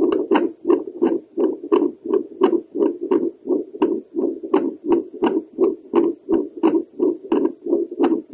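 Heartbeat picked up by a home fetal Doppler held over the pulmonary valve area of an adult woman's chest: evenly repeating whooshing pulses, about three a second.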